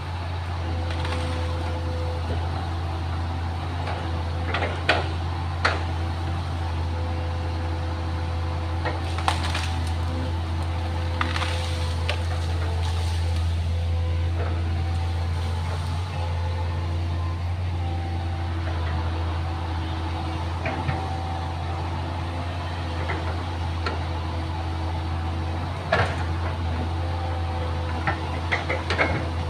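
Excavator's diesel engine running steadily, with a few sharp knocks and clunks over it.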